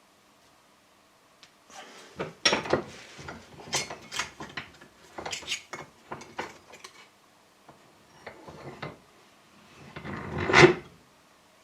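A piece of salvaged sheet steel being handled and bent into shape by hand: a run of irregular scraping and flexing noises, with one louder scrape near the end.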